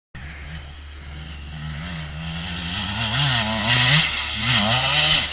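Motocross bike engine revving up and down with throttle and gear changes, growing louder toward the end as it comes closer.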